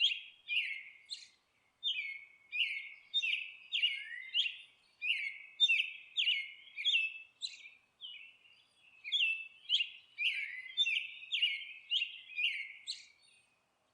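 A bird chirping: a long series of short, high, downward-sweeping chirps, about two a second, with a few brief pauses.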